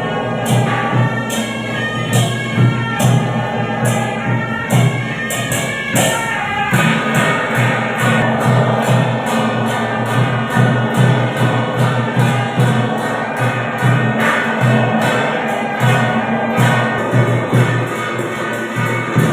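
Temple procession music: drums pulsing steadily under a melody line, with cymbal crashes in a regular beat that quickens in the second half.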